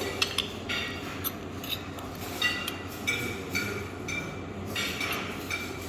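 Cutlery clinking and scraping against a plate while food is served and mixed, a string of light clinks with brief ringing.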